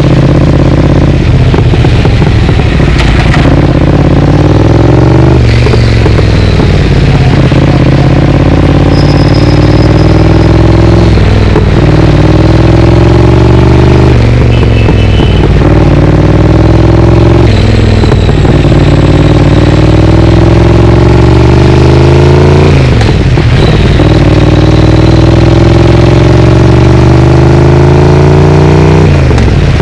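Triumph Speed Twin's parallel-twin engine through a Vance & Hines exhaust, loud, climbing in pitch as the bike accelerates. The pitch breaks and drops about every five to six seconds, as at each gear change.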